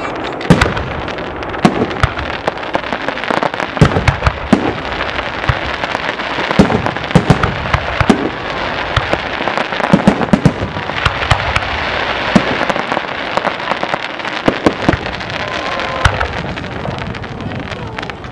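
Aerial fireworks display: many sharp bangs of bursting shells, irregular and frequent throughout, over a continuous crackling hiss.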